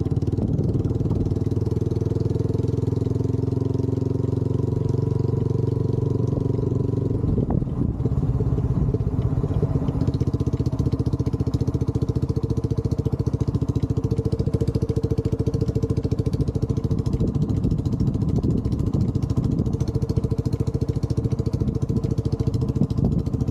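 Motorcycle engine running steadily; about seven seconds in, its sound changes to a rapid, even pulsing that carries on.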